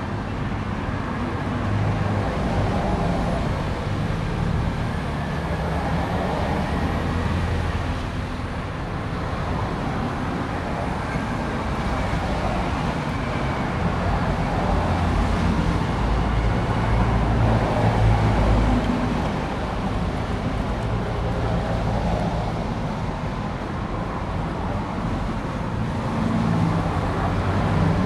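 Low, steady engine-like rumble from an RC model bulldozer at work, swelling and easing every few seconds.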